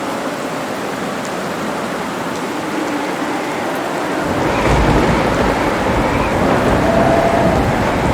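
Steady rain with a low roll of thunder rumbling in about halfway through and carrying on.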